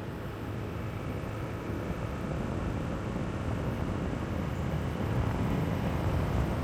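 Riding a motorbike: a steady rumble of engine and wind rushing over the microphone, growing a little louder near the end.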